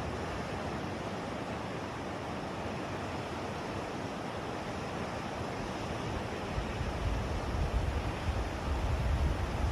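Lake Michigan waves washing in a steady, noisy surf, with wind blowing across the microphone. The wind buffeting picks up and gets gustier over the last three seconds or so.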